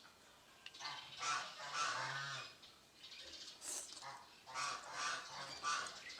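Geese honking: a run of short, repeated honks, several calls in quick succession with brief pauses between them.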